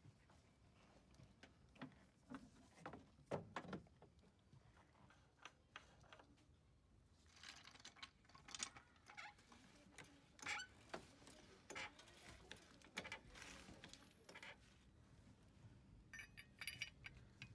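Faint, scattered clicks and clinks of small tools or parts being handled, with a brief jingle near the end.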